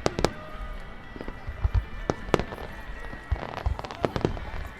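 Aerial fireworks exploding: a rapid, irregular run of sharp cracks and deeper booms, several a second, with the loudest bangs at the start and about two and a half seconds in.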